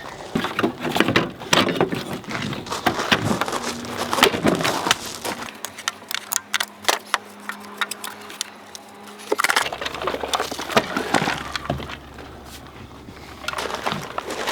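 Irregular clanks, snaps and rattles of rusted car parts being cut and pulled out by hand, with no steady saw motor running.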